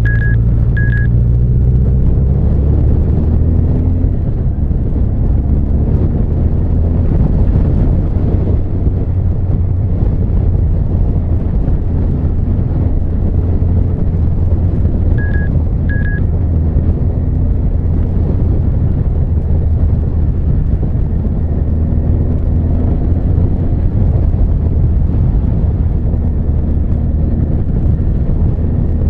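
Honda CB1300 Super Bol d'Or's inline-four engine running steadily as the motorcycle is ridden, its pitch rising and falling a little. A short high double beep sounds twice, near the start and about halfway through.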